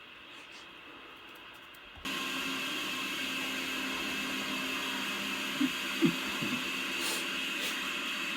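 Diesel locomotive running, heard through a trail camera's microphone: a steady mechanical hum and hiss that starts abruptly about two seconds in, with a few short knocks partway through.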